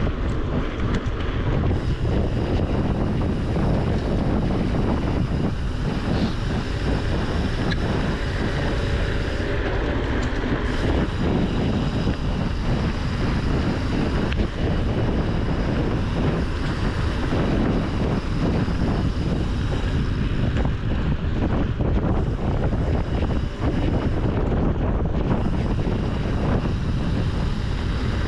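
Wind rushing over the microphone of a mountain bike rider, a steady loud rumble with many small knocks and rattles from the bike going over the trail.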